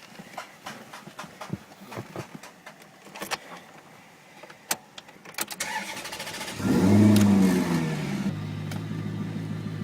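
Scattered clicks and knocks, then the starter cranks briefly and the Maserati GranTurismo's V8 fires through its sport exhaust with a loud startup flare. It then settles to a steady idle.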